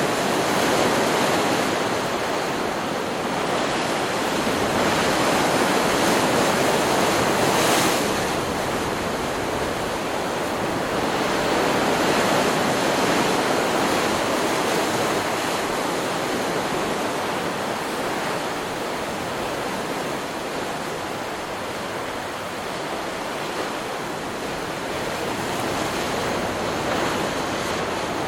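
Stock recording of ocean surf: waves breaking and washing in as a continuous rush that swells and eases every few seconds.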